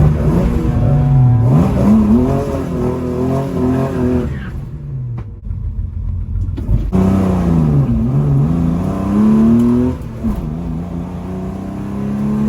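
Chrysler 265 Hemi straight-six with triple Weber carburettors under hard acceleration, its pitch climbing and then dropping back at each gear change. The climbs and drops come several times, with a brief quieter stretch about halfway through.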